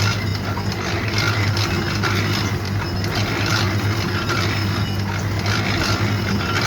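Machinery running with a steady hum and a regular clatter that repeats roughly once a second.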